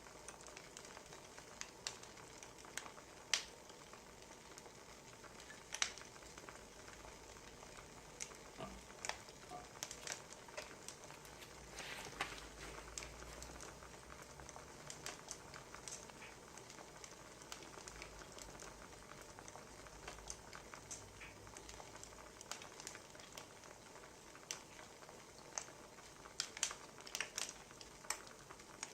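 Wood fire crackling, with irregular sharp snaps over a faint steady hiss.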